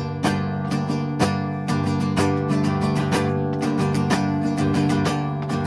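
Acoustic guitar strummed in a steady rhythm, an instrumental break between sung lines of a song.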